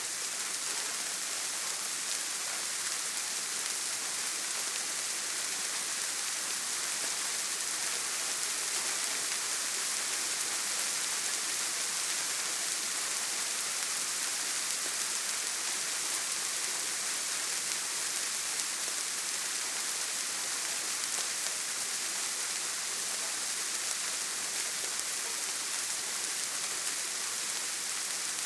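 Steady rain on a tin roof, an even hiss of many drops that holds at one level throughout.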